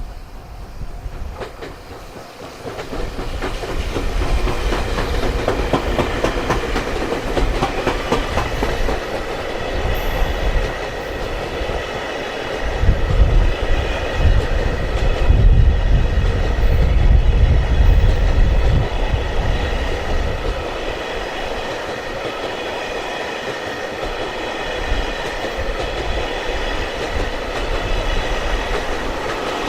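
Train passing close by, wheels clattering over rail joints. A heavy rumble builds and is loudest from about 13 to 19 seconds in, with steady high tones ringing over it.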